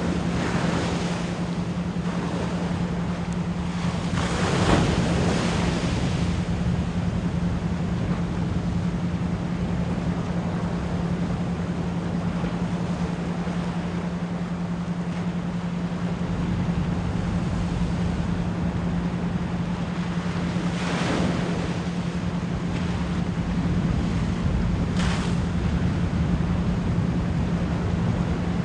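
Ocean surf washing in and out, with several waves swelling up, the clearest about five seconds in and again past twenty seconds, over a steady low 174 Hz pure tone held underneath.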